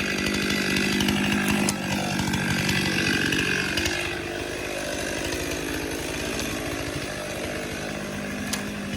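Chainsaw engine running steadily, harder and louder for the first few seconds, then easing slightly.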